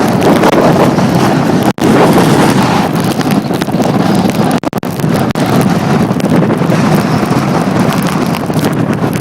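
Storm wind from Tropical Storm Irene blowing hard on the microphone: a loud, steady rushing noise, cut off for an instant a little under two seconds in.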